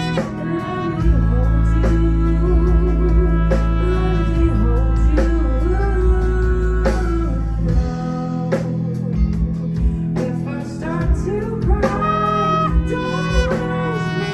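Live band music: a voice singing over guitar and a steady beat.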